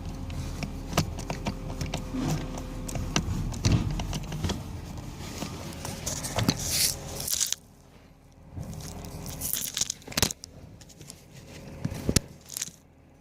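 Irregular clicks, knocks and scraping of a new blower motor resistor being worked into its mounting slot under a car dashboard by hand. The sound drops sharply about halfway through, leaving a few sharp clicks.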